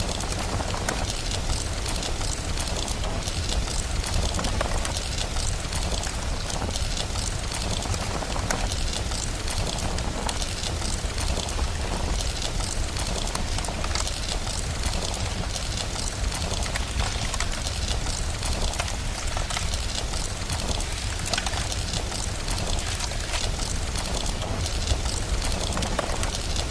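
Steady rain with a crackling fire: a continuous hiss of rain dotted with many small crackles, over a constant low rumble.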